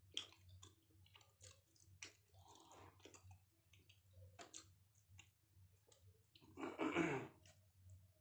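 Close-up eating sounds: a man chewing with many small wet mouth clicks and smacks. About seven seconds in comes a louder throat sound that falls in pitch.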